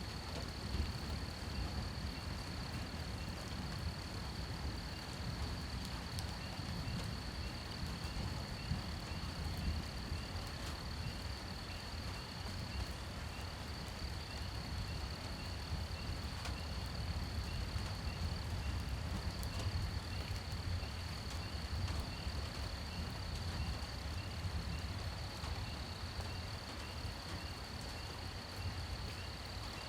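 Night insect chorus: a steady high-pitched trill with a row of fainter chirps about twice a second. Beneath it runs a low steady rumble and a light hiss of rain.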